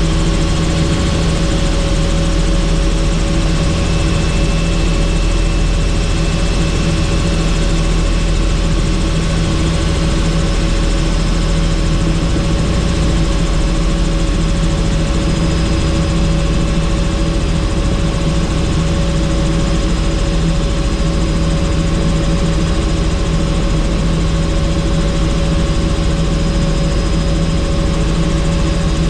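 Helicopter in flight, heard from inside the cabin: a loud, steady, unchanging drone of engine and rotor with a few held tones over rushing noise.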